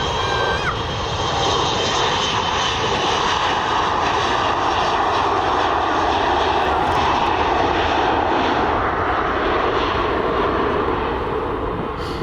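Airliner engines running loud as an airliner passes on the runway, a steady roar that builds and eases off again, with a faint high whine over it.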